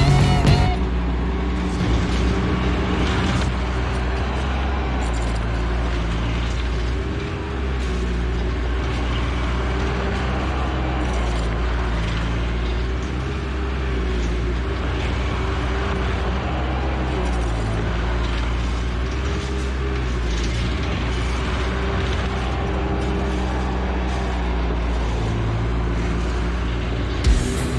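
Diesel engine of construction equipment running steadily, its low drone rising and falling a little in pitch as it works.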